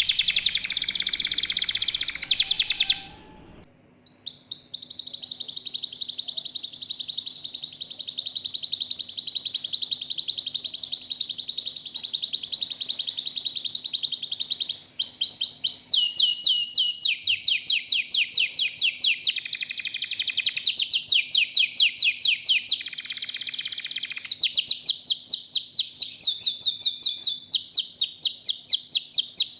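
Domestic canary singing in long rapid trills, each a fast run of many identical high notes, switching to a new note type every few seconds. The song breaks off briefly about three seconds in, then resumes over a faint steady hum.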